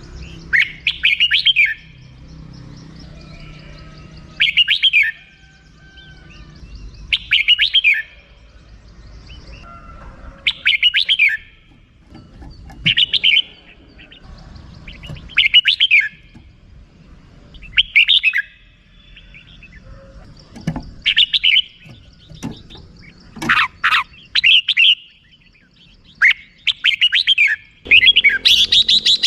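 Red-whiskered bulbul giving its 'rik' call: short bursts of rapid, sharp chattering notes, repeated about every two to three seconds. Near the end the notes come faster in a longer, louder run.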